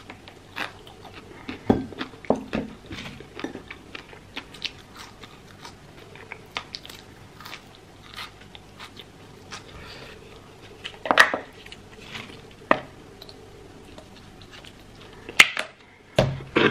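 Close-miked chewing and biting of crispy fried chicken and fresh parsley: a steady run of small crunches and mouth clicks, with a few louder crunches along the way.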